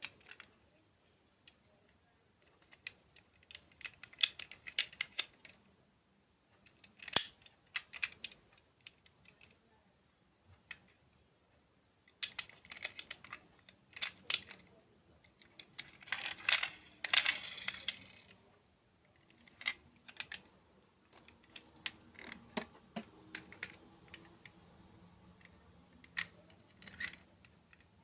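Close-up ASMR food sounds from desserts: scattered crisp clicks and taps, with a longer crackling, crunchy burst about sixteen seconds in.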